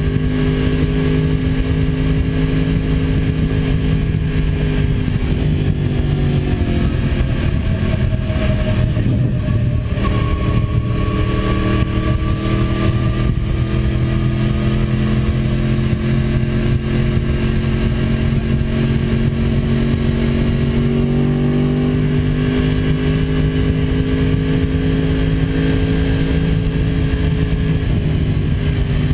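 2006 Yamaha YZF-R1's inline-four engine pulling steadily at speed under wind rush. The revs fall away about six seconds in, then climb slowly and hold before easing off again near the end.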